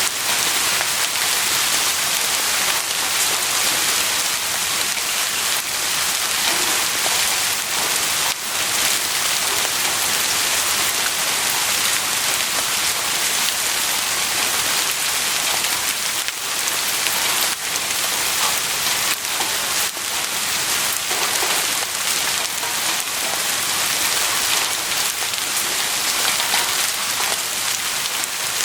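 Heavy rain falling steadily: a dense, even hiss of drops on surfaces, with a sharper single drop hit now and then.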